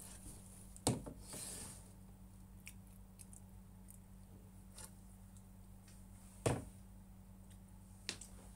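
A few sharp knocks from tableware and food containers being handled, with a short rustle just after the first one, over a low steady background hum.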